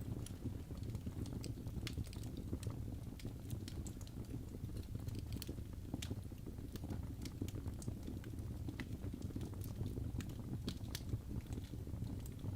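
Birch logs burning in a fireplace: a steady low rumble of flames with frequent irregular sharp crackles and pops.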